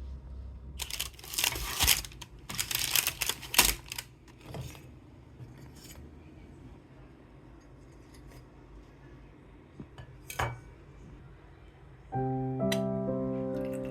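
Kitchen handling noises: a few seconds of clattering and scraping, then a single sharp clink about ten seconds in. Soft background music with held notes starts near the end.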